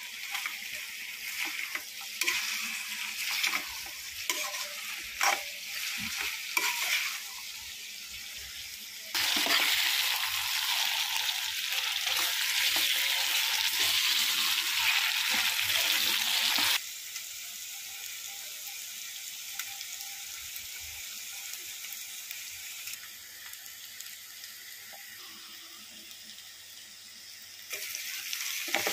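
Sliced radish frying in oil in a steel pan, sizzling, while a metal spatula scrapes and clicks against the pan as it is stirred. About nine seconds in the sizzle turns much louder and steady for several seconds, then drops suddenly to a quieter hiss.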